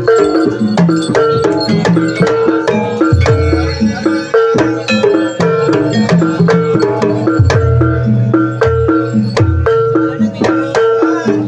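Traditional Javanese ebeg accompaniment played live: tuned metal or bamboo percussion repeating a fast pattern over drums, with deep bass strokes coming in twice.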